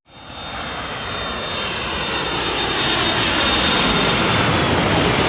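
Jet airliner engines, a dense rush with a thin high whine, growing steadily louder.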